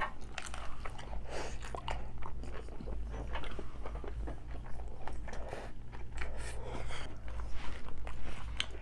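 Close-up chewing and biting of crunchy tacos: a dense run of irregular crisp crunches and wet chewing, over a low steady hum.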